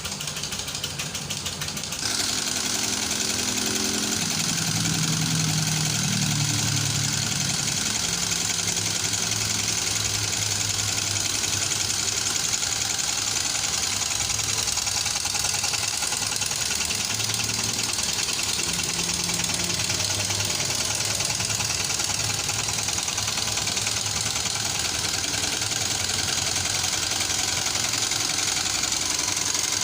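Homemade single-cylinder steam engine running on boiler steam, ticking rapidly. About two seconds in, a loud steady steam hiss sets in over it and runs on, with a low hum that wavers in pitch.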